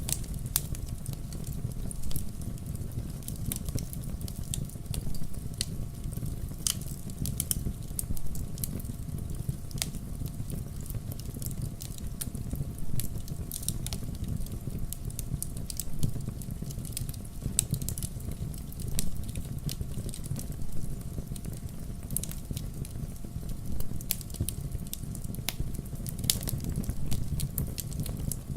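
Fire burning in a fireplace, with frequent irregular crackles and sharp pops over a steady low rumble of the flames.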